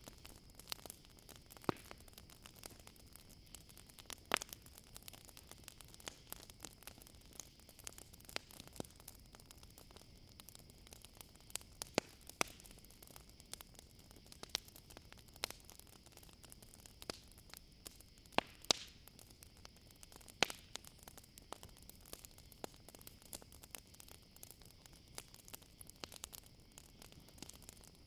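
Campfire crackling, with irregular sharp pops and snaps over a soft hiss. A steady high chirring of crickets runs underneath.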